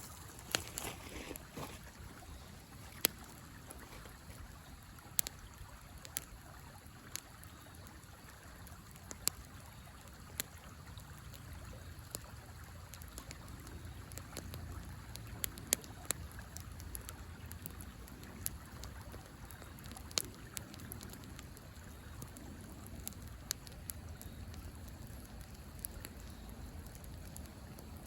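Wood fire crackling with sharp, scattered pops every second or two, over the steady rush of a river.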